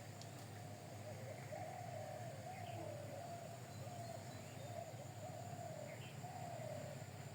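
Faint bird calls: a run of low, wavering coos one after another, with a few brief higher chirps mixed in.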